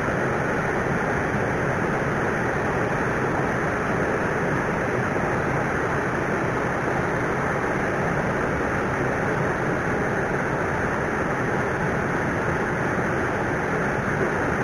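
Flowing river water rushing steadily, an even hiss with no change in level.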